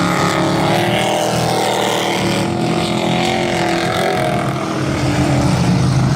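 Race trucks' engines running together at speed on a dirt oval, their pitch wavering up and down as they lap, easing off slightly about five seconds in.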